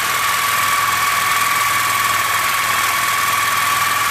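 Power cutting tool running steadily through a seized steel bolt on a truck's front axle, a constant high whine over a harsh hiss.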